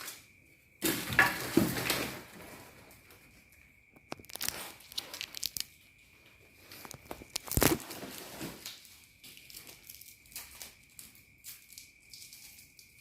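Packaging wrap being torn and crumpled off a standing mirror, with a loud rip about a second in, rustling on and off, and a sharp knock midway through.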